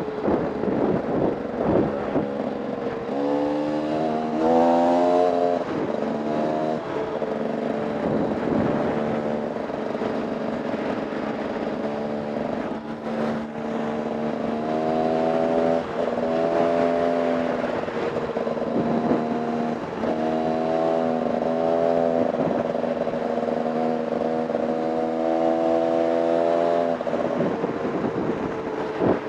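Dirt bike engine being ridden hard off-road, its note rising and falling as the throttle opens and closes, with long stretches held at a steady pitch. Wind noise and rattling knocks run underneath.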